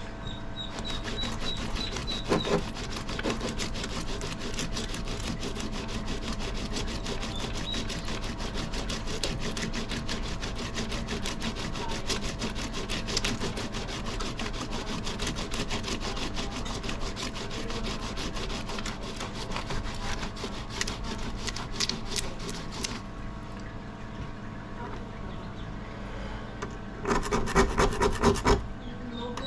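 Repeated scraping and rubbing strokes on a rusted steel axe head as the rust is worked off, irregular throughout, with a faster, louder run of strokes near the end.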